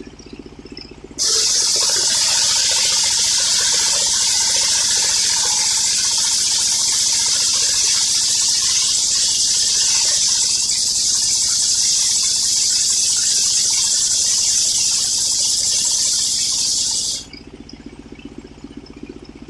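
Circular sawmill blade ripping through an old coconut-palm log: a loud, steady hissing cut that starts suddenly about a second in and stops suddenly near the end. The sawmill's engine runs at idle before and after the cut.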